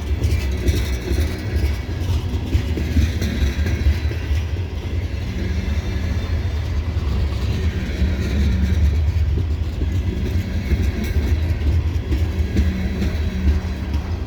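CSX loaded coal train rolling past: a steady low rumble of hopper cars with wheels clicking over the rails and a faint diesel hum that comes and goes.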